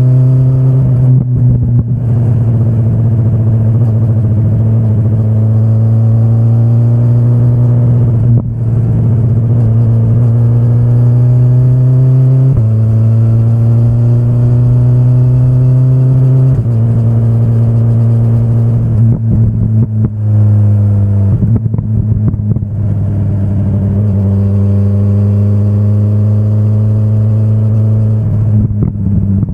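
2025 BMW S1000RR's inline-four engine pulling on part throttle, its pitch climbing slowly through a gear. The pitch jumps up once and drops back a few seconds later, and the note turns choppy and broken in short stretches where the throttle closes.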